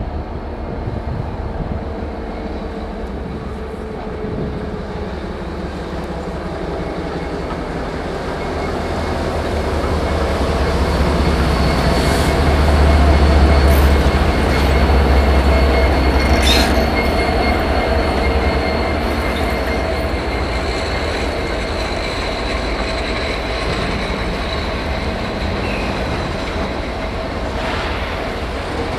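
Diesel-hauled freight train moving through a rail yard: locomotive engines rumbling, building to a peak about halfway and then easing, with steady wheel squeal and a few sharp clanks from the passing cars.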